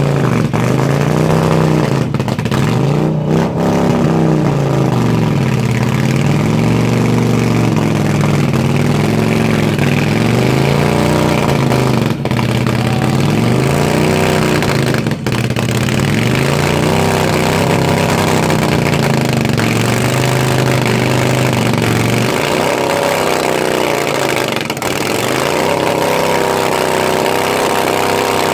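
Custom motorcycle engine revving hard during a burnout, the revs swinging up and down about every two seconds as the rear tyre spins; a little over twenty seconds in, the revs settle higher and hold steady.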